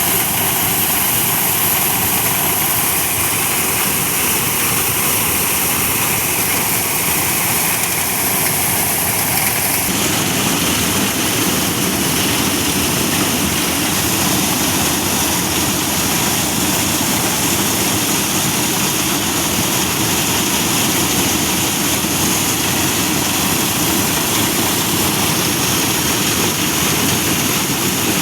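Engine-driven corn sheller running steadily with a loud, dense rushing noise. About ten seconds in the sound changes: the high hiss drops away and a deeper, fuller rush takes over.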